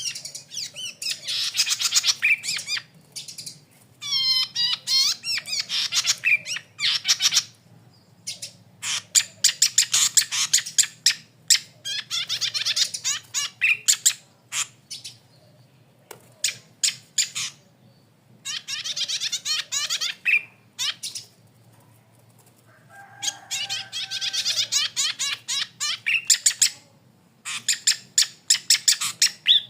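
Golden-headed cisticola (red-headed 'cici padi') singing: repeated phrases of rapid, chattering and buzzy high notes, each one to three seconds long, separated by short pauses.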